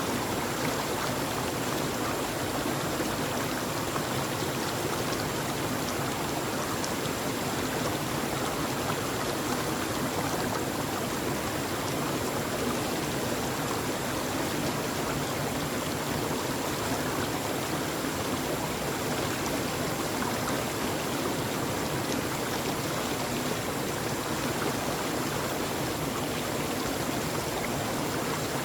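Flowing stream water, a steady, even rushing that does not change.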